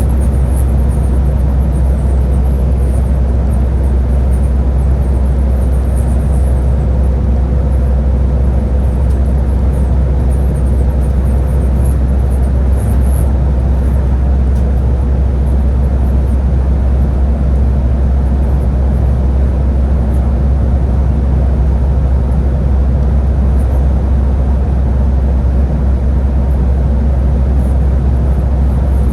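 Scania Higer A30 city bus running, a steady low rumble of engine and road noise that holds even throughout.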